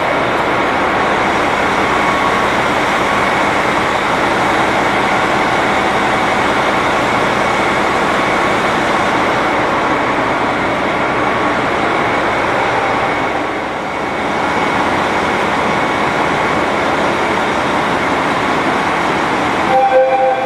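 Train running at a station platform: a loud, steady rumble and hiss from the train, easing briefly about fourteen seconds in.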